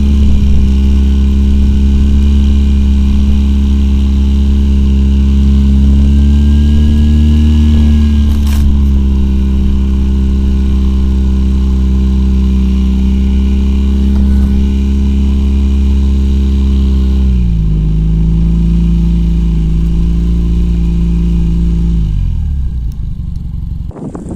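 Homemade quad bike's two-cylinder Oka car engine running at steady high revs. Its pitch drops a step about two-thirds of the way through, and the revs fall away near the end.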